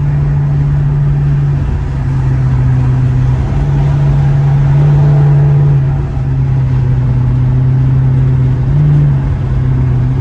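Straight-piped Dodge Charger R/T's V8 exhaust droning loudly and steadily while cruising, its pitch shifting slightly a few times with the throttle.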